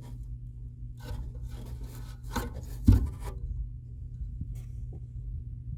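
Rasping, scraping sounds of a rusty HVAC blower wheel being turned by hand, with a sharp knock about three seconds in, over a steady low hum.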